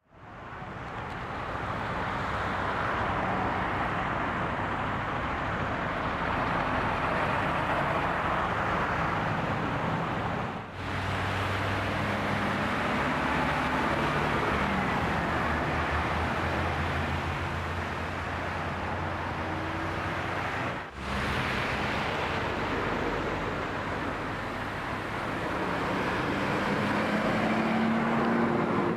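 Steady outdoor road noise with vehicle engines running and passing, in three stretches broken by two abrupt cuts.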